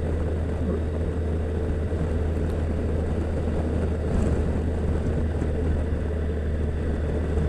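Yamaha FJR1300 motorcycle cruising steadily: a steady low drone from its inline-four engine, with road noise, heard from on the bike.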